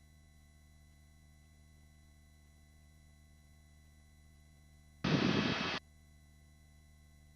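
Helicopter intercom feed carrying only a faint steady electrical hum. A little past five seconds in, the voice-operated mic gate opens for under a second, letting a burst of noise through before it cuts off sharply.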